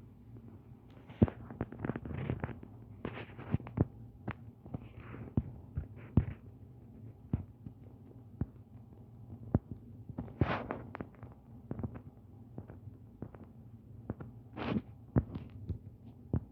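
Irregular sharp clicks and knocks, a few close together and then spread out, with two short rustling noises about ten and fifteen seconds in.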